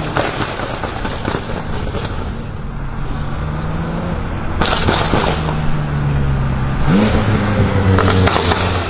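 BMW M5 F10's twin-turbo V8, breathing through catless downpipes, running with engine speed slowly sagging and short bursts of exhaust crackles and pops. About seven seconds in, the revs rise sharply, followed by another burst of crackles near the end.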